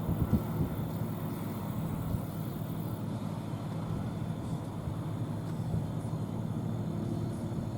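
John Deere combine harvester's diesel engine running steadily under harvesting load, a constant drone with a few gusty bumps at the start.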